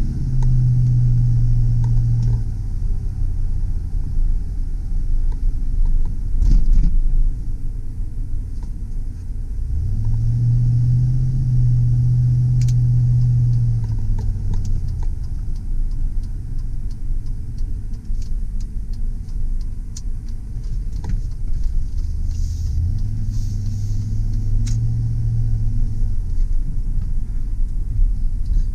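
Pickup truck driving, its engine note swelling and holding as it accelerates three times before easing off again, with steady road rumble underneath and a few light clicks.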